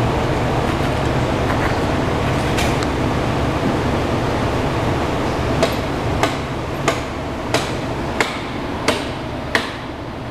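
A run of seven sharp, evenly spaced knocks, about one every two-thirds of a second, starting about halfway through, over a steady low rumbling noise.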